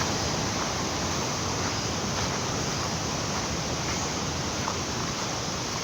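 A rain-swollen river rushing in a steady, unbroken roar of water.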